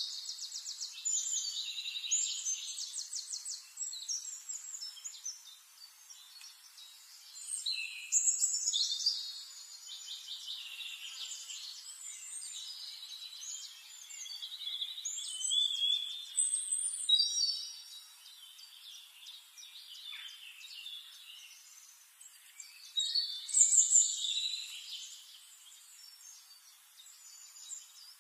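Birdsong: bursts of rapid high trills and chirps, loudest about eight seconds in, around sixteen seconds and near twenty-four seconds, with softer twittering between.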